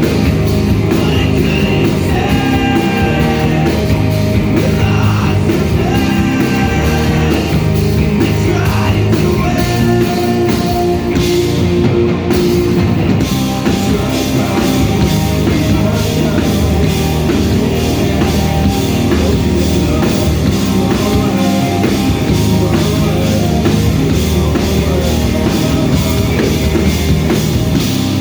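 Rock band playing live, with a drum kit, electric guitars and bass, loud and continuous.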